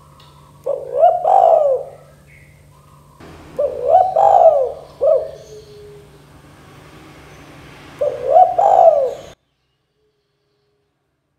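Spotted dove (tekukur) cooing, three phrases of its rolling coo a few seconds apart. The recording cuts off abruptly near the end.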